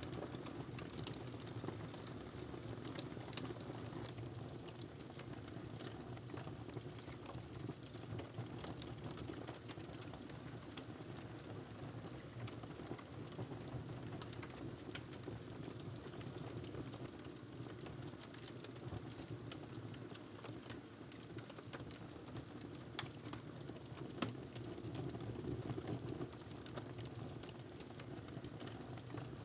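Wood fire crackling in a fireplace: irregular small snaps and pops, a couple of sharper ones near the end, over a steady low rumble.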